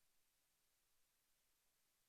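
Near silence: only faint steady hiss.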